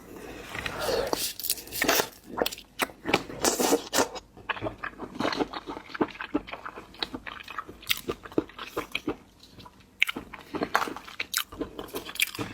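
Seafood shells cracking and being crunched and chewed up close, as a dense run of sharp cracks and crunches with a short lull about two-thirds of the way through.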